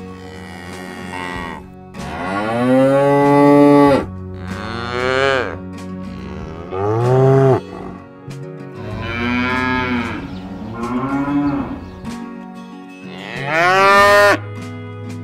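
Cows mooing repeatedly: about six long, drawn-out moos, each rising then falling in pitch.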